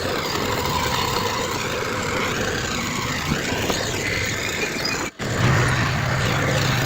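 Heavy earthmoving machinery running, diesel engines with high squeals gliding up and down over the din. The sound cuts out for an instant about five seconds in, then a steadier low engine drone follows.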